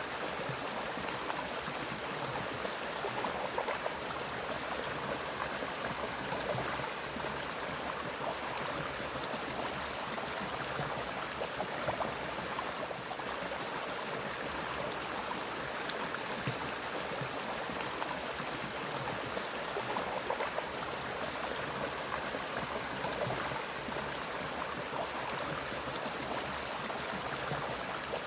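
Mountain stream flowing steadily through forest, an even rush of running water. A steady high-pitched tone sits above it.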